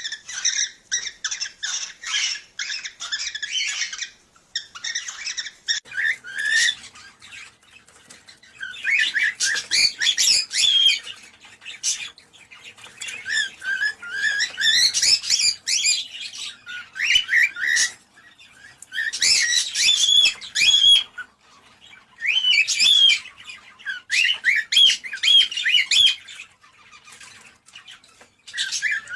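Cockatiels chirping and warbling in repeated bouts of a few seconds, with short pauses between them.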